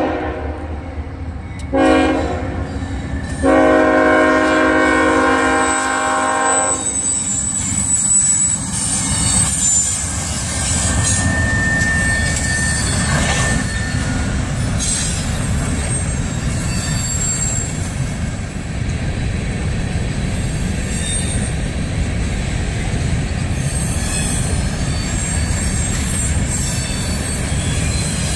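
A CSX freight train's locomotive horn sounds for the grade crossing: a blast ending about two seconds in, a shorter one, then a long one of about three seconds. After that comes the steady rumble and clatter of hopper and tank cars rolling past, with a few high wheel squeals.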